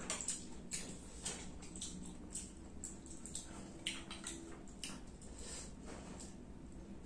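A person chewing and smacking their lips while eating, a steady run of short wet clicks and smacks.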